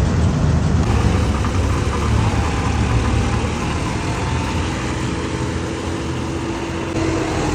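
John Deere combine harvester's diesel engine running steadily, a deep continuous drone with a faint steady whine over it from about three seconds in.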